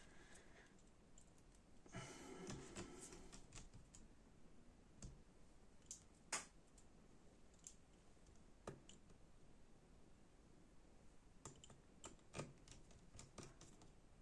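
Faint, scattered small clicks with a short stretch of light scraping: a small screwdriver working the screws that hold a laptop motherboard in place.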